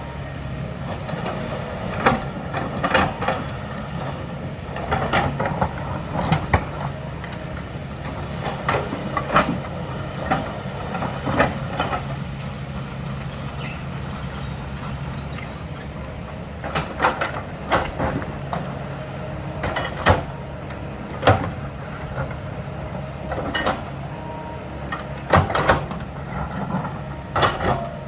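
Heavy diesel earthmoving machine running steadily while its steel bucket scrapes and knocks against rock and soil in irregular clanks. A faint high squeal comes in around the middle.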